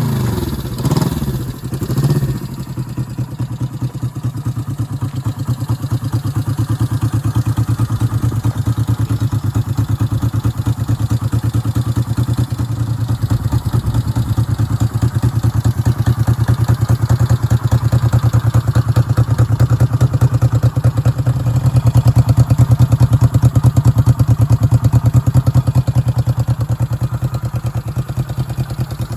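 1968 Honda CB250K0's air-cooled parallel-twin engine firing up on the kickstart with the choke on, given two quick blips of throttle, then running steadily with an even pulsing beat. It runs a little louder for a few seconds past the middle.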